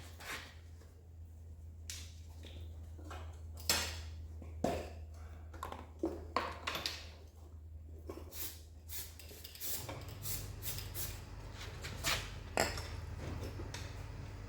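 Scattered metallic clinks and knocks of tools and motorcycle parts being handled as the rear wheel and axle bolt are refitted, over a low steady hum.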